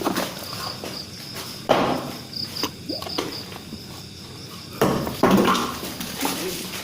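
Crickets chirring steadily in a high pitch, pulsing briefly in the middle. A few loud thumps break in, one about two seconds in and a cluster near five seconds.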